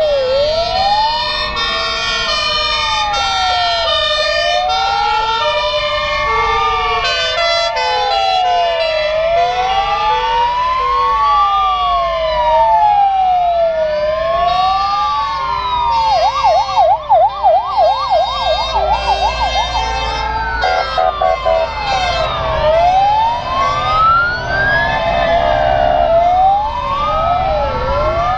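Several fire engine sirens sounding together: slow rising-and-falling wails over a stepped two-tone hi-lo pattern, with one switching to a fast warble for a few seconds about halfway through. The trucks' engines rumble underneath, louder in the second half.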